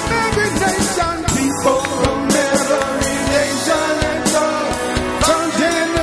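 Church worship band playing an upbeat song, with voices singing over a drum kit and other instruments.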